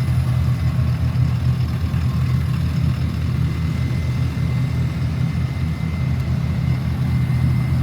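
Steady low rumble of a running vehicle engine, even throughout, with a faint steady whine high above it from about two seconds in.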